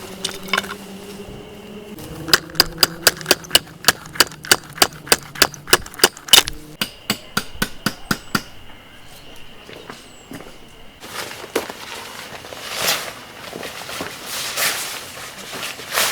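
A quick, even run of sharp hammer strikes, about four a second, slowing into scattered knocks after a few seconds.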